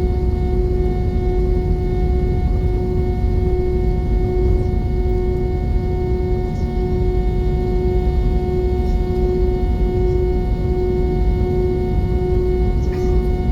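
Airbus A320 cabin noise: the steady drone of the jet engines and airflow, a deep rumble with a steady whine over it, unchanging throughout.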